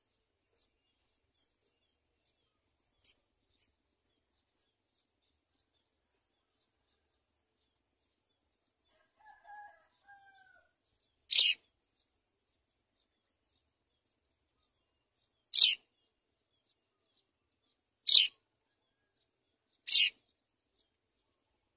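House sparrows chirping at the nest: a few faint high peeps, then four loud, short, sharp chirps a few seconds apart in the second half.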